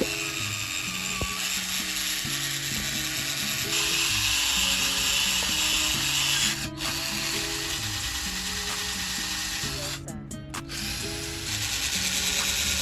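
Socket ratchet clicking rapidly and continuously, with two short breaks, one about halfway through and one near the end, over background music.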